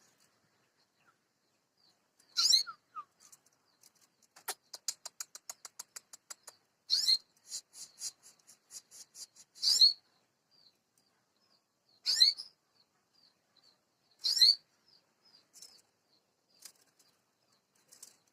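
Domestic canary singing: five loud, high phrases a few seconds apart, a fast run of repeated notes near the start, and soft chirps between the phrases.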